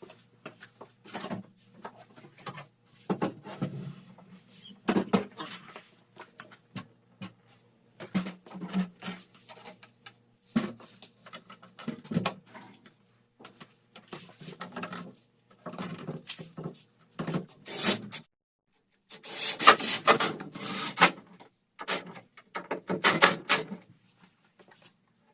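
Wood rubbing and scraping in irregular strokes, with scattered knocks, as an interior door is handled and checked for fit in its frame; the scraping gets louder and busier near the end.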